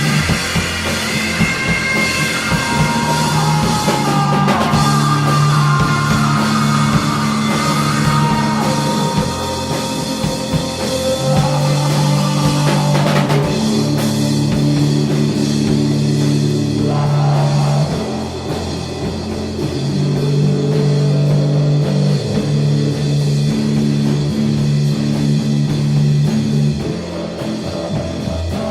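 Stoner rock band music: distorted guitars, synthesizer and drum kit, with long, heavy low notes held for several seconds at a time.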